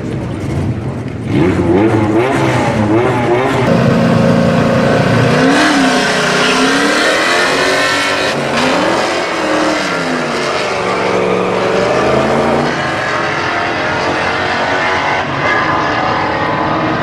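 A C5 Corvette's V8 and a second car's engine held at steady revs, then run at full throttle down a drag strip, the pitch climbing and dropping through several gear changes before it fades as the cars pull away.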